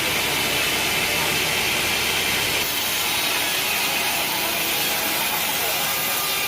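Sawmill saw running steadily through a mahogany log, a continuous loud, hissing cut with the machine's motor under it; the tone of the cut shifts slightly about two and a half seconds in.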